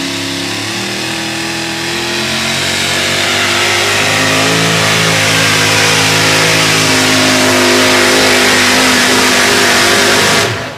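Super modified four-wheel-drive pulling truck's engine held at high revs under heavy load while pulling the sled, its pitch drifting slowly as the run goes on. The sound cuts off sharply near the end.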